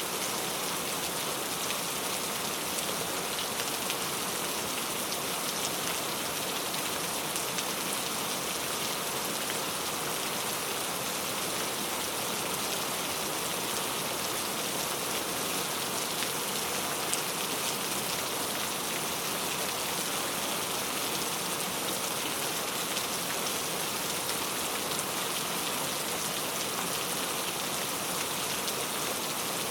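Steady rain falling, a dense even hiss with many fine drop patters on a surface.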